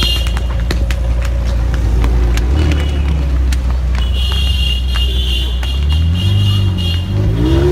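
McLaren 720S twin-turbo V8 running at low speed, with its engine note rising and falling near the end. A steady high-pitched tone sounds for about two seconds in the middle.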